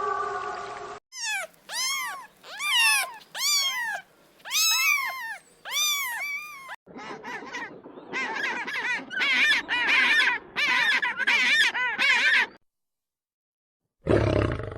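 A series of short, pitched animal cries, each rising and falling, then a faster run of overlapping cries of the same kind. A siren-like tone fades out at the start, and a loud low animal sound begins near the end.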